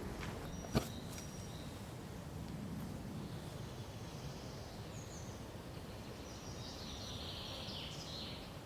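Forest ambience: a steady low background hiss with faint high bird chirps and calls in the middle and near the end. A single sharp click a little under a second in is the loudest sound.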